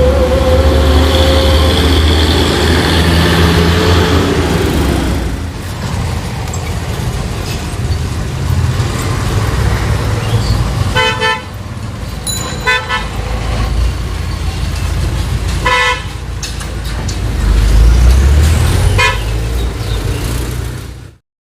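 Heavy truck engine running as it passes in road traffic, then quieter traffic with four short horn toots a few seconds apart and another engine swelling loud near the end. The sound cuts off suddenly just before the end.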